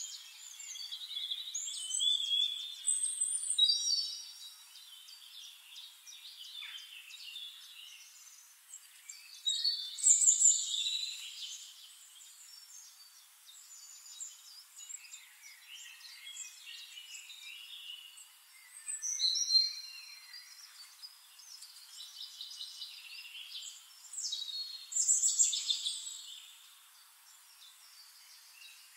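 Birdsong: several birds chirping and trilling in repeated bursts of song, loudest about 3, 10, 19 and 25 seconds in.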